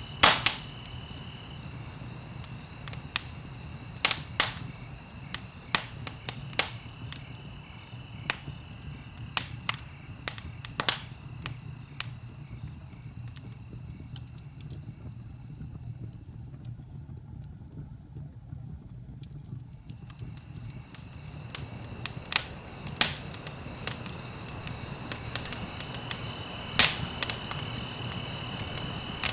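Wood fire in a fireplace crackling, with sharp irregular pops over a low steady rumble. A faint steady high-pitched tone fades out around the middle and comes back near the end.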